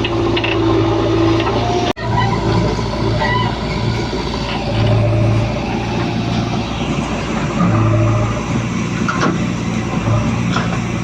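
Heavy diesel engine running steadily, its note swelling in short surges several times, with a brief dropout about two seconds in.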